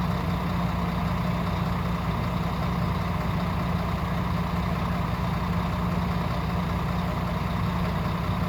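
Heavy diesel truck engine running steadily with a constant low drone and no change in speed.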